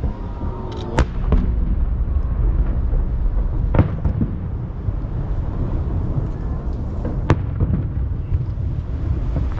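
Aerial fireworks bursting over the sea: a continuous low rumble of overlapping booms echoing off the surrounding mountains, with sharp, louder bangs about a second in, near four seconds and past seven seconds.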